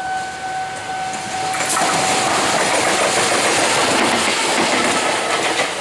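A train passing close by, a loud rush that swells about a second and a half in, with the wheels clacking over the rail joints.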